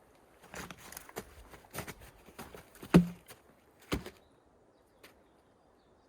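Irregular knocks and rustles, with a loud dull thud about three seconds in and another sharp knock just before four seconds.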